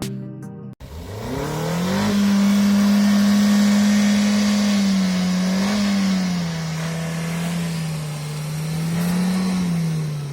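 Car petrol engine revving up about a second in and held at high revs, dipping briefly about halfway and rising again near the end before the revs fall away. A short stretch of music cuts off just before the engine comes in.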